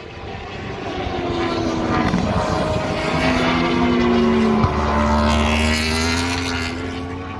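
World Superbike race motorcycles passing at racing speed, several engines overlapping at high revs, their pitch sliding down as they go by. A single sharp crack comes about four and a half seconds in, as the engine noise swells to its loudest.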